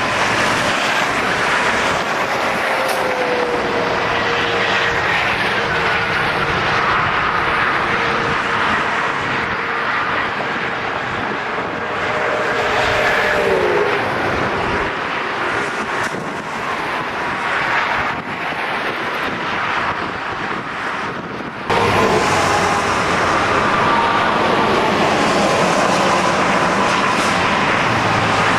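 Strong wind roaring steadily, with thin wailing tones that slowly slide down in pitch. The sound changes abruptly about 22 seconds in.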